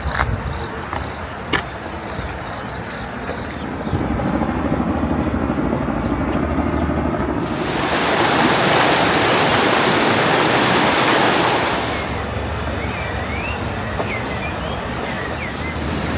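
Steady rushing of fast-flowing water from a mountain river or waterfall. It swells much louder for about four seconds in the middle, then settles back.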